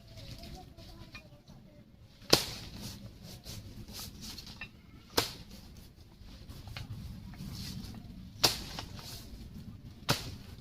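Four sharp chopping strikes of a blade into a banana tree trunk, a few seconds apart.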